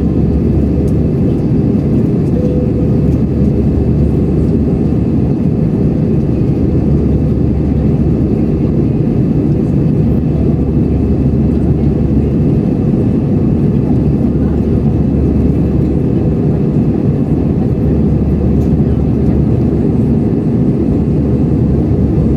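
Steady cabin noise inside an Airbus A320 in flight after take-off: engine and airflow noise heard through the fuselage, deep and unchanging.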